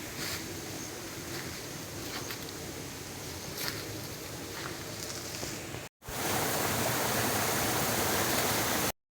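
Steady outdoor rushing noise with a few faint clicks. It breaks off briefly about six seconds in, returns louder and brighter, then cuts to silence near the end.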